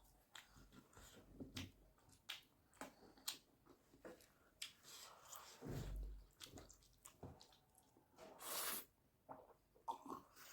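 Quiet close-up eating: a person chewing noodles with many small, irregular wet clicks and squishes. There is a soft thump about six seconds in and a short hissing burst about eight and a half seconds in.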